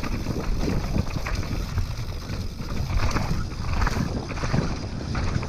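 Trek Remedy mountain bike rolling fast down a rocky forest trail: tyres on stones and dirt, with irregular knocks and rattles from the frame and drivetrain as it hits rocks, over a steady low rumble of wind on the microphone.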